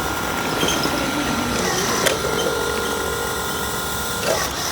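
Hydraulic pump and drive of a 1:8 scale model hydraulic excavator running under load while it digs: a steady mechanical whine whose tone shifts about two seconds in and again near the end, with a sharp click about two seconds in.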